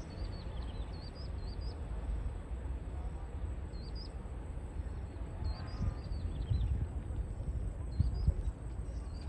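Small birds chirping in short, scattered bursts over a constant uneven low rumble.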